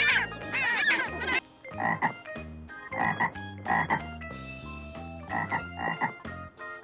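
A frog croaking in short calls repeated in small groups.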